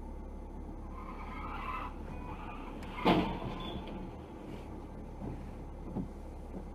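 Car tyres squealing for about a second, then a sharp, loud collision impact about three seconds in, over a steady low rumble of vehicle noise. Two lighter knocks follow near the end.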